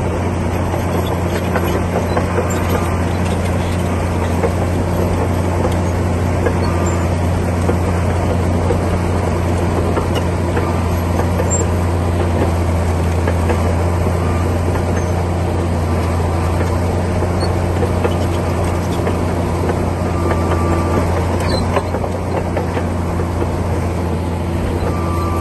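Komatsu D60P bulldozer's diesel engine running steadily under working load, a constant deep drone.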